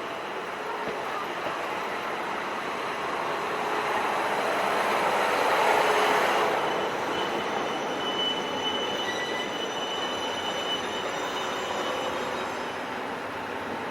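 A train rolling slowly past on the rails. The wheel noise builds to its loudest about halfway through, then thin, high squealing tones from the wheels on the curved track come in.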